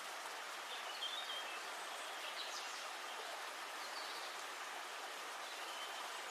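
Several short, high bird calls over a steady outdoor hiss of river-forest ambience.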